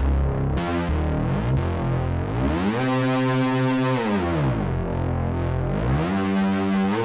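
ESI Xsynth synthesizer playing a sustained chord over low bass notes. The chord glides up in pitch a few seconds in, holds, slides back down, then rises again near the end.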